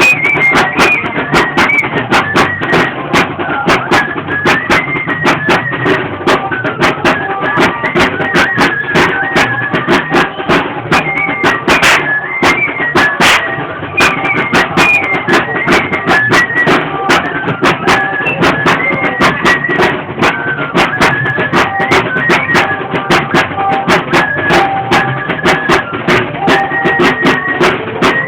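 Traditional torito music: a flute playing a high, stepping melody over a steady drumbeat.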